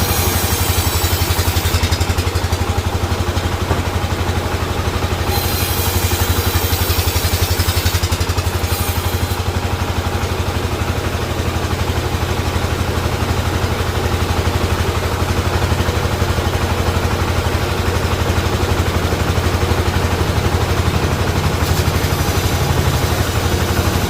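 Sawmill machinery running steadily: a deep, engine-like drone with a fast, even pulse, joined now and then by stretches of high hiss.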